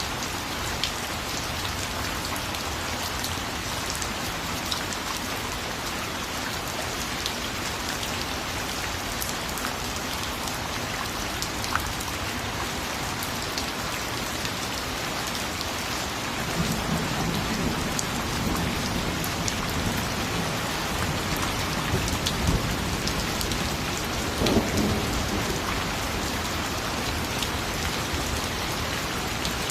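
Steady rain falling on a surface, with scattered sharper drop ticks. About halfway through, a low rumble of thunder comes in and runs on, swelling a few seconds before the end.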